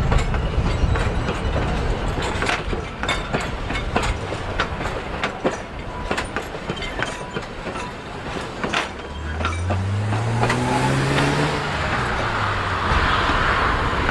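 A steam train's wheels roll over the rail joints in a run of sharp clicks over a steady rumble, with some wheel squeal. About nine seconds in, a rising hum joins and then fades, followed by a hiss.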